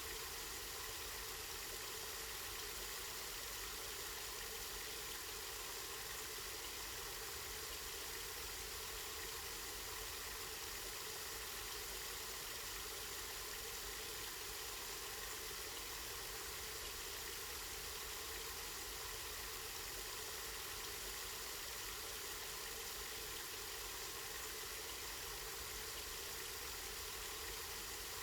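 Water from a spring flowing steadily, a constant even rush with no breaks.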